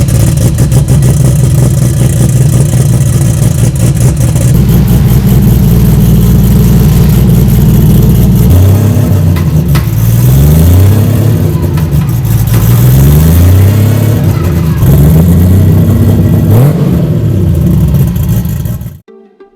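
Toyota 2JZ inline-six engine of a Nissan S15 running very loud and steady, then, from about halfway, revving up in a series of rising pulls, each dropping back before climbing again. It cuts off abruptly near the end.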